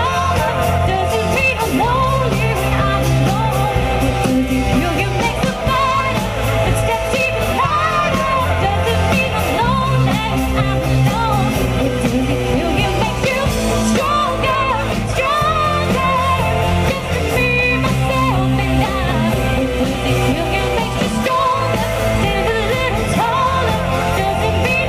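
Live pop-rock band playing at full volume, with a singer over bass and drums.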